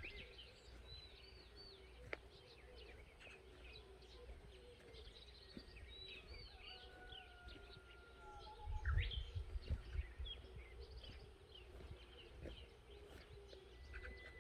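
Many small birds chirping and twittering in a dawn chorus. Wind buffets the microphone in a gust of low rumbling about two thirds of the way through.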